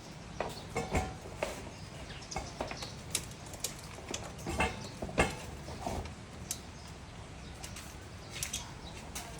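Pigeons feeding: a scatter of sharp, irregular taps, typical of beaks pecking grain, over a low steady background rumble.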